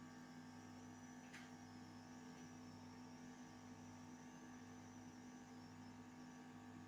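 Near silence with a faint steady electrical hum and one soft tick about a second and a half in.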